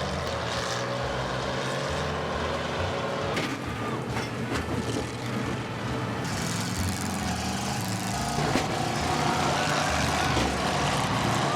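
Combine harvester engines running steadily, with a few sharp knocks; the loudest knock comes about eight and a half seconds in.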